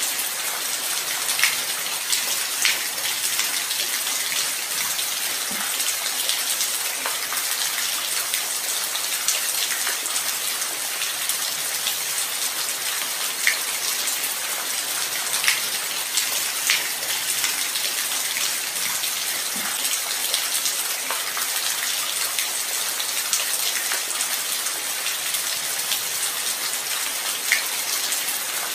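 Steady light rain: an even hiss with occasional distinct drops ticking close by.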